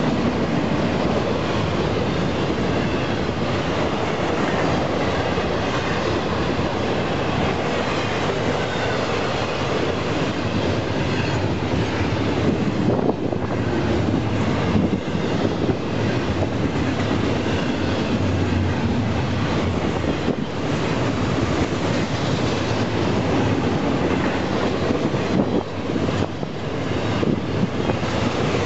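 Union Pacific freight train rolling past: a steady, loud rumble and clatter of wheels on the rails, with repeated sharp clicks from the wheels later on.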